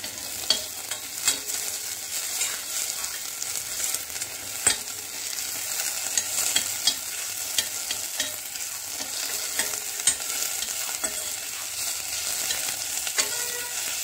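Green beans, onion and peppers sizzling in hot oil in a stainless steel pot as tomato and pepper paste is fried in, stirred with a metal spoon. A steady hiss throughout, with sharp clicks and scrapes of the spoon against the pot at irregular moments.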